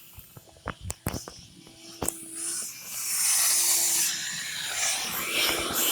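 A few handling clicks and knocks, then about two and a half seconds in a steady spraying hiss starts and holds to the end.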